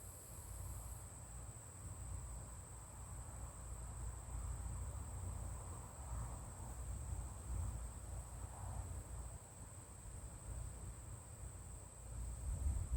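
Insects trilling steadily in a high, thin tone, over a low rumble.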